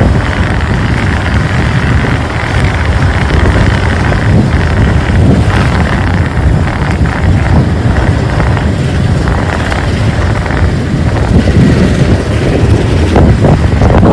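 Motorcycle riding along a road: engine running under steady wind rush on the microphone.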